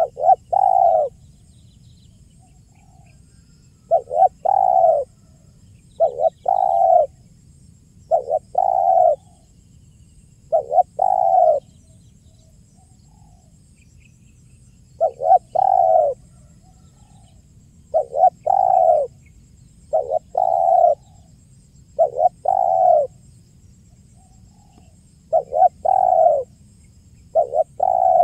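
Spotted dove (tekukur) cooing in the song style keepers call 'kuk 1', repeating the same short phrase of quick coo notes about every two seconds, with a pause of a few seconds near the middle.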